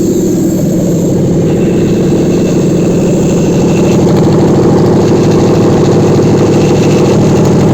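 Toyota 1UZ-FE 4.0-litre V8 running steadily at idle on an engine test stand. The engine is warmed up to operating temperature and runs evenly.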